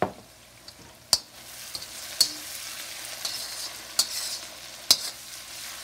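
Sliced onions sizzling in hot oil and clarified butter in a wok, stirred with a slotted metal spatula that clinks against the pan five times. The sizzle grows louder after about a second as the onions are turned.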